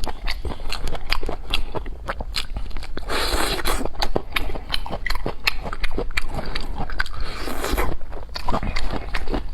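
A person chewing crunchy food close to the microphone, with many sharp crunches. Two longer rushes of noise come about three and seven and a half seconds in.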